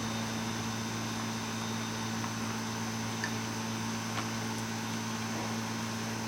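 Steady electrical hum with a constant hiss, broken by a few faint clicks about three and four seconds in.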